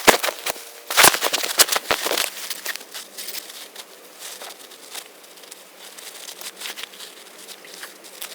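Rustling and crackling of leaves and twigs, dense and loud for the first two seconds, then thinning to scattered lighter crackles.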